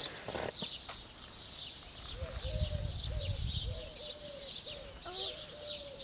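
Birds calling outdoors: many quick, high chirps throughout, and through the middle a lower call repeated in short notes.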